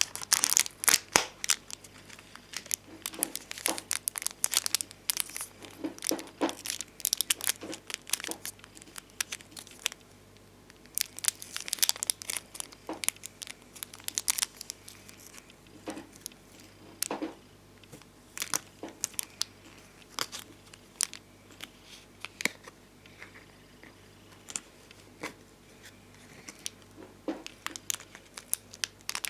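Bonbon drop and ohajiki stickers being handled and peeled from their sheets: an irregular string of crinkling clicks and crackles with short pauses.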